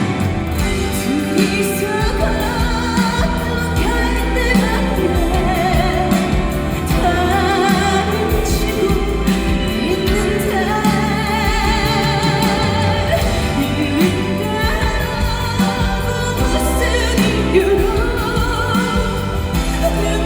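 A woman singing a Korean trot ballad over band accompaniment, holding long notes with a wide vibrato.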